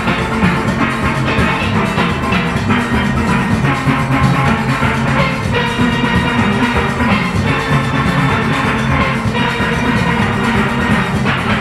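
Large steelband playing at full volume: many steel pans sounding a melody and chords over a fast, steady drum-and-percussion beat.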